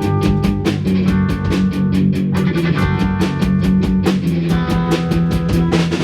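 Rock band playing an instrumental intro: guitar chords over a steady drum-kit beat with a bass drum.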